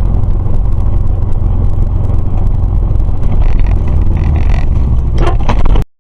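Car driving, with a loud, steady low road rumble; the sound cuts off abruptly near the end.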